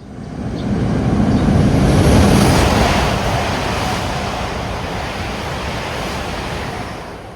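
Rushing roar of high-speed rail travel at speed, wheel and air noise, heard from aboard a high-speed train. It comes in suddenly, is loudest about two seconds in, and dies away near the end.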